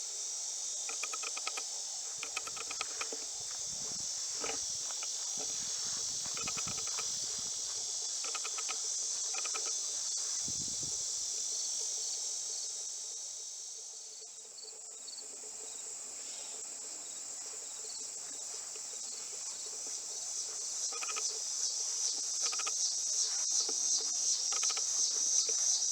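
Steady high-pitched insect chorus, a continuous pulsing trill, with short chirps here and there in the first few seconds and again near the end.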